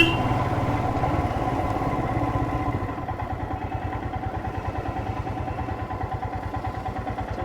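Motorcycle engine idling steadily, its low even pulsing dropping slightly in level about three seconds in.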